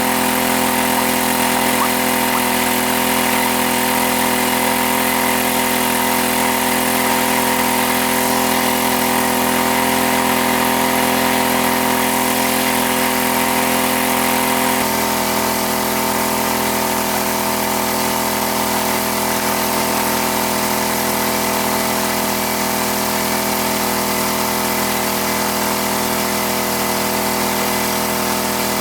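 A motor running steadily with an even hum, its tone shifting slightly about halfway through.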